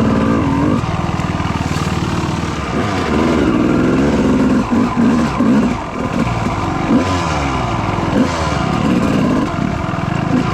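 Dirt bike engines running and being warmed up, with a string of rising and falling revs through the middle of the stretch.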